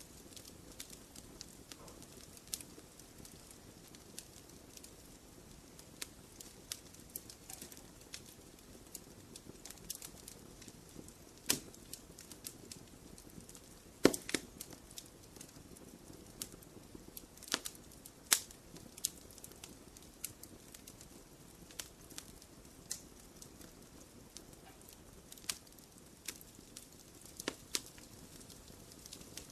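Wood fire crackling in a fireplace: irregular sharp pops and clicks over a soft low hiss, with a few louder snaps around the middle.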